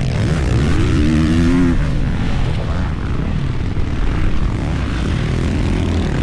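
Dirt bike engine running, its pitch climbing and wavering in the first couple of seconds, then settling into a steady low drone.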